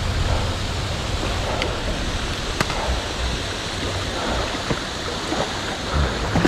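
Steady rush of flowing creek water, with a couple of faint ticks.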